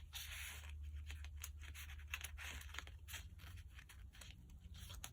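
Paper rustling and crinkling, with many small clicks and scrapes, as the pages of a handmade mini journal are handled and a journal card is worked out of its tag pocket. A low steady hum sits underneath.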